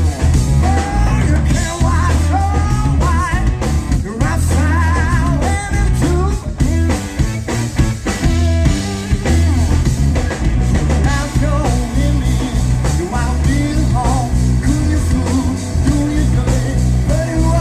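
Live blues-rock band playing loud: electric lead guitar lines with wide vibrato over a heavy bass and drum groove.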